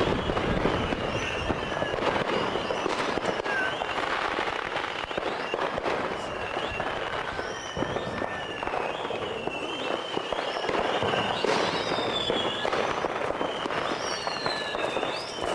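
Fireworks going off continuously: a dense crackle of firecrackers and cracks, with high whistles sliding up and down in pitch over it.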